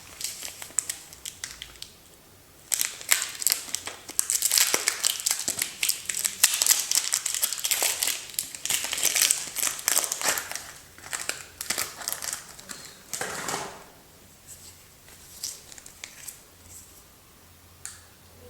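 Soap packaging being opened and crumpled by hand: a dense run of crinkling and crackling from about three seconds in until about fourteen seconds, then a few light rustles.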